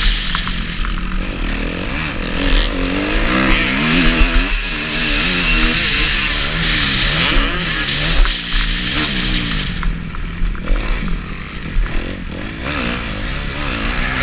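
Kawasaki KX250F motocross bike's four-stroke single-cylinder engine being ridden hard, its revs rising and falling over and over as the throttle is worked through the track.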